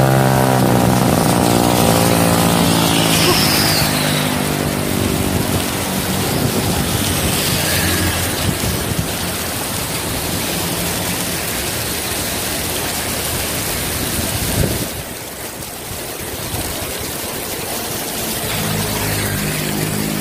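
Heavy rain pouring down, a dense steady hiss. A vehicle engine hums and passes in the first couple of seconds, and another engine hum comes in near the end.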